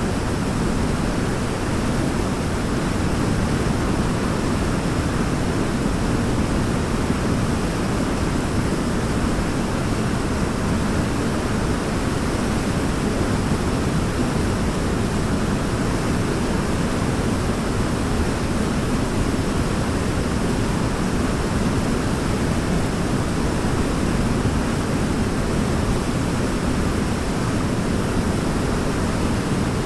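Waterfall: a steady rush of falling water, deep and even, with no breaks or changes.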